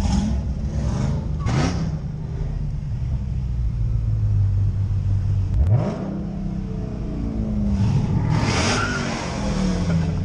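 V8 muscle car engines running and accelerating as the group pulls away, their note rising in pitch about three times as they rev up through the gears over a steady low drone.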